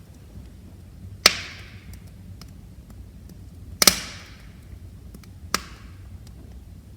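Wood fire crackling: three sharp pops, about a second, almost three and a half seconds (a quick double) and four and a half seconds in, with faint ticks between them over a low, steady rush of burning.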